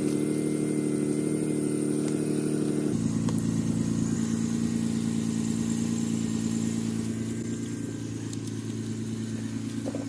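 BMW 323is's 2.5-litre inline-six running at a steady idle, its note dropping to a lower pitch about three seconds in.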